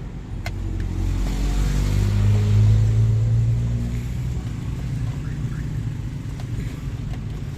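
A motor vehicle's engine running with a low rumble, swelling about two seconds in and easing off again; a single sharp click about half a second in.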